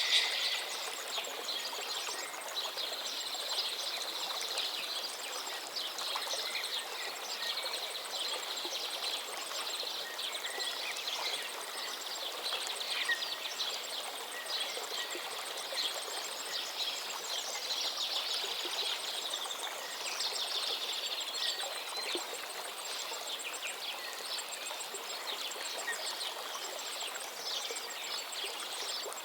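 Running water with birds chirping and trilling throughout, many short high calls over the steady rush of the water; the loudest call comes right at the start.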